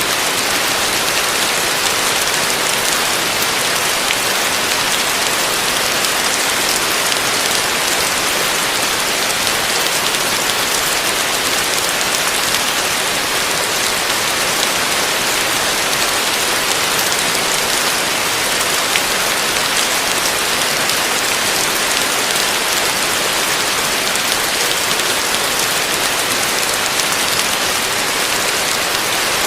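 Heavy rain falling in a steady, even hiss of dense drops.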